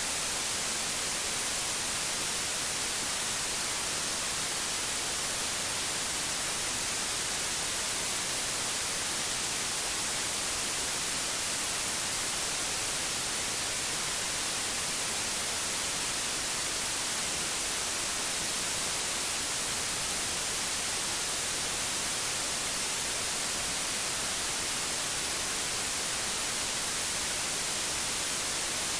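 Steady white noise: an even hiss, strongest in the high frequencies, that does not change.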